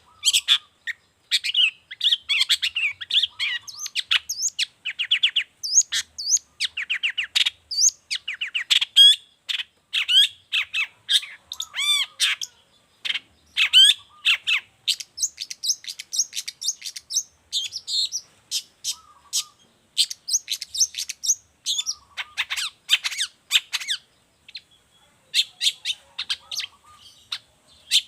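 Long-tailed shrike (cendet) in full, continuous song: a rapid, unbroken run of varied chirps, whistles and harsh notes, with a brief pause near the end.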